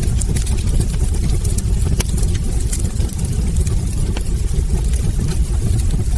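Wood fire burning in a fireplace: a steady low rumble of the flames with many small, irregular crackles and pops from the logs.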